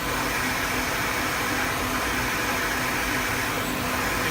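Brother TC-R2A CNC drill and tapping center running a tapping cycle with the spindle at 800 RPM: a steady hissing machine noise with a low steady hum underneath.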